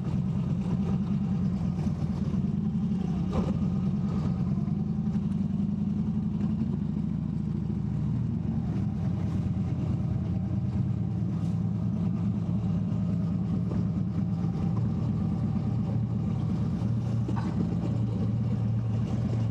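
Harley-Davidson V-twin motorcycle engine running at low revs. Its note settles into a steady idle in the second half.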